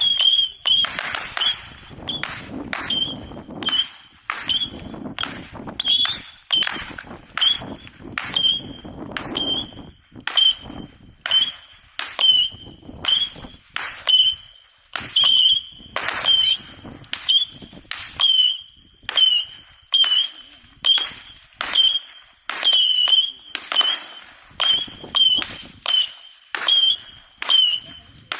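100-shot Saturn missile battery firing in quick succession, about one and a half shots a second, each shot a short high whistle with a sharp crack.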